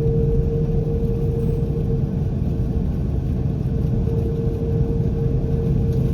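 Airliner cabin noise inside an Airbus A330-300: steady engine rumble with a constant whine from its Rolls-Royce Trent 700 engines, holding even throughout.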